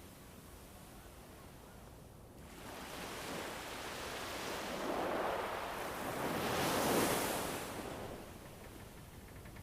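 Soundscape of winter wind rushing. It swells twice, the second and louder gust about seven seconds in, then dies back down.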